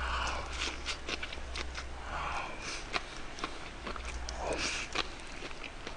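Close-miked chewing of a large mouthful of bossam wrap (boiled pork, oysters, kimchi and rice), with many short wet clicks of the mouth.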